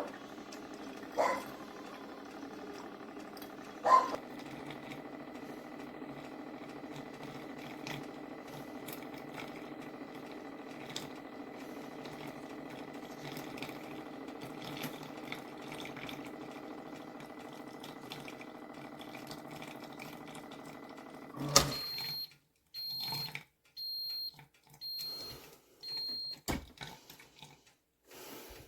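Ninja DualBrew coffee maker running with a steady mechanical hum for about twenty seconds, then stopping abruptly. A short row of evenly spaced high beeps follows, the machine's signal that it has finished.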